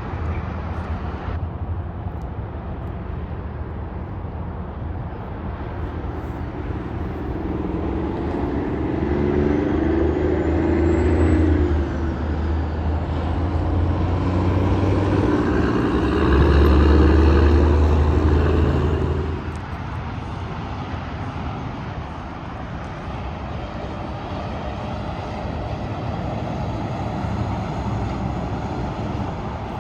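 Interstate traffic with heavy trucks driving past: steady tyre and engine noise, with two loud pass-bys, the first about a third of the way in and the second a little past halfway.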